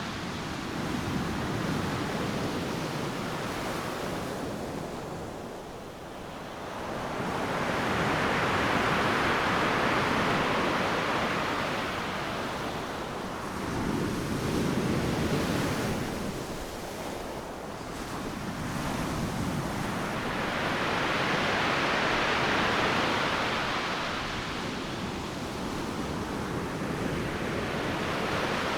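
Ocean surf: waves breaking on a beach and washing up, rising and falling in slow surges every six or seven seconds.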